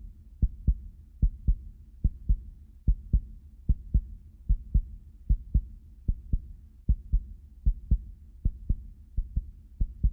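Human heartbeat: steady double thumps, about 75 beats a minute, over a low rumble.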